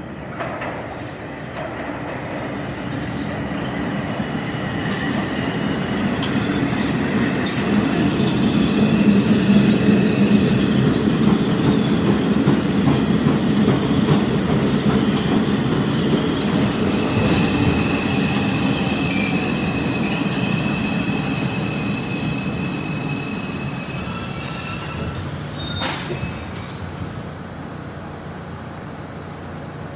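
R142 subway train moving through the station on steel wheels. A rumble builds over the first several seconds and stays strong, high wheel squeals come and go, and there is a sharp clack about 26 seconds in before the sound fades.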